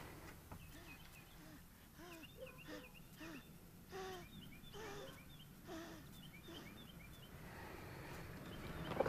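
Birds chirping faintly outdoors: repeated short high chirps, with several lower, short sliding calls mixed in between about two and six seconds in.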